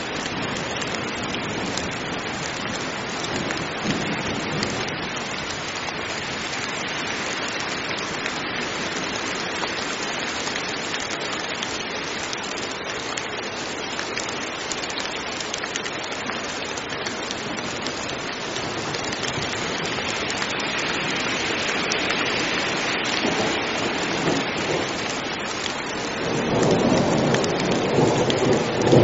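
Heavy rain falling steadily, an even hiss of drops. Near the end a low rumble of thunder swells up.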